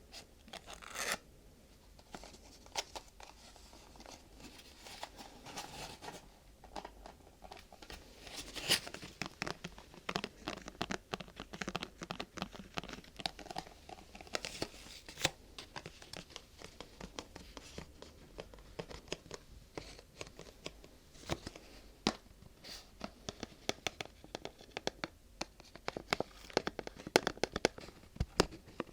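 Close-miked ASMR handling of crinkly material, a thin sheet crumpled and rubbed, giving many sharp crackles and light taps that grow busier near the end.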